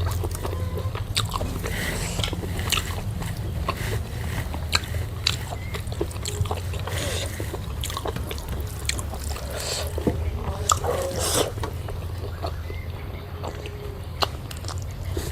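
Close-miked eating: wet chewing with many short mouth smacks and clicks, over a steady low hum.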